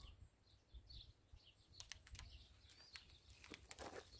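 Near silence: a few small birds chirping faintly, with several soft clicks around the middle and near the end.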